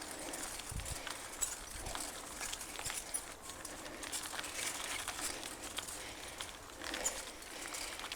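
Mountain bike rolling over a rough dirt trail: continuous tyre crunch with many small irregular clicks and rattles from the bike.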